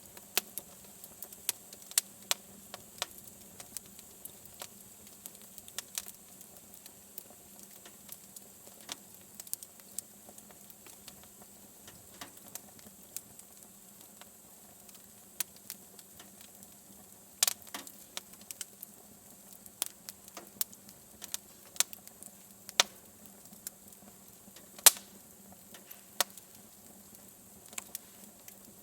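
Wood fire in a fireplace crackling, with irregular sharp pops; the loudest come about 17 and 25 seconds in.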